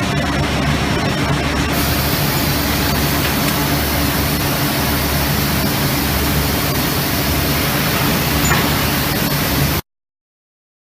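Steady factory-floor machinery noise from an industrial robot packaging cell and its conveyor line: an even hiss over a low hum, which cuts off abruptly near the end.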